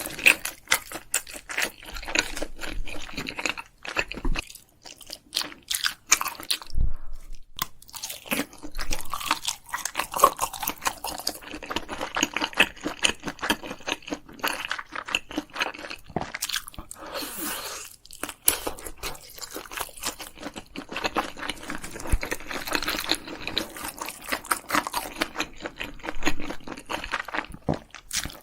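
Eating sounds of spicy Korean food: rapid, irregular crunching and chewing, with a few brief pauses.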